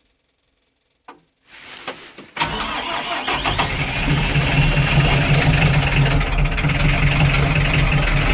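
2008 McCormick CT28 compact tractor's diesel engine cold-started on glow plugs in freezing weather. A sharp click about a second in, a brief crank, then the engine catches at about two and a half seconds and settles into a steady run.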